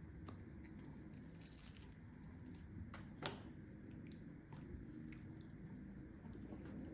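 Quiet, close chewing and wet, squishy eating sounds of someone eating barbecue ribs, with a few faint clicks and one sharper click about three seconds in.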